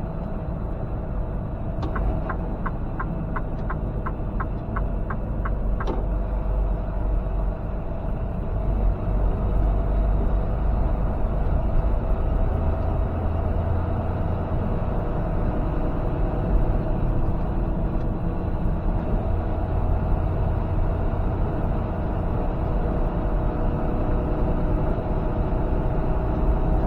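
A semi truck's engine and road noise heard inside the cab while driving, growing louder about nine seconds in. Near the start there is a run of evenly spaced ticking, about three ticks a second for about four seconds, from the turn-signal flasher.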